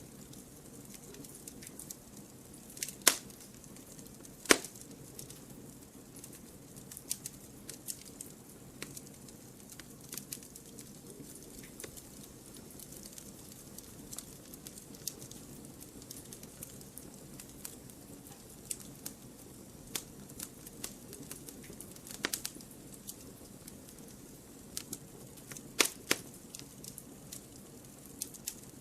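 Wood fire burning in a fireplace, crackling with irregular small snaps over a low steady hiss, and a few louder pops about 3 and 4.5 seconds in and again near 22 and 26 seconds in.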